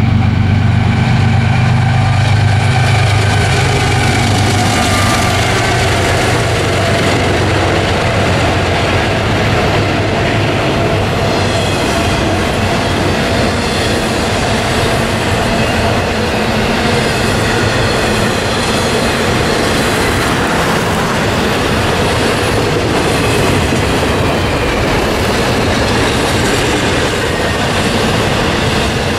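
Canadian Pacific double-stack freight train rolling past, its container well cars and covered hoppers making a steady, loud rolling noise of wheels on rail. A deep low hum fades out over the first few seconds.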